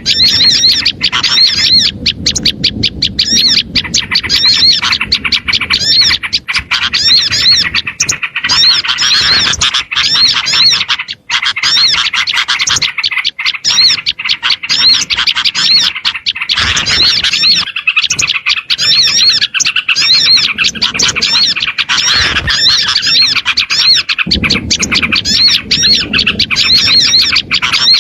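Bird-lure recording of many small songbirds calling in agitation: dense, high, rapid chirps and squawks repeating over and over without pause.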